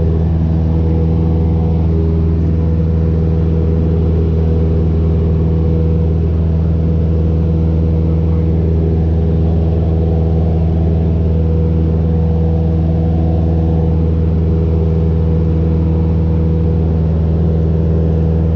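Light airplane's engine running steadily at constant power, a loud, even drone with a low hum.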